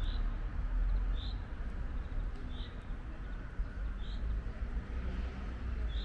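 A small bird repeating a short, high single-note call about every second and a half, five times, over a steady low rumble.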